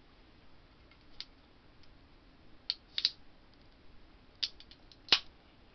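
A few scattered sharp clicks and taps from a soda can being handled, the loudest about five seconds in, with no fizz or gush: the promised eruption does not come.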